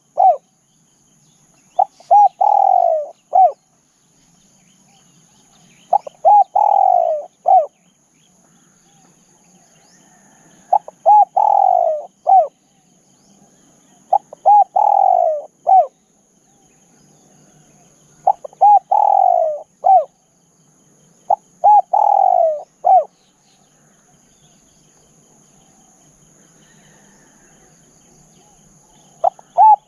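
Spotted dove cooing: a repeated phrase of a few short coos and one longer falling coo, about every three to four seconds, with a longer pause near the end before the next phrase.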